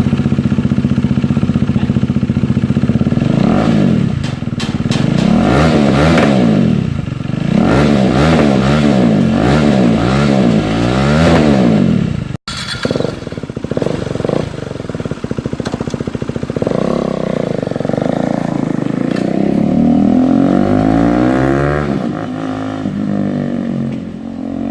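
KTM Duke 390's single-cylinder engine running through a custom M4-replica exhaust, held steady at first, then revved over and over, its pitch climbing and dropping with each blip. The sound breaks off abruptly about halfway through and picks up again, with more revs.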